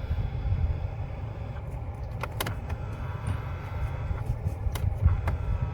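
Kia Sorento climate control with the ignition on: a steady low rush, with a few sharp clicks as the air-flow mode is switched. The newly replaced A/C mode servo motor is working with no ticking.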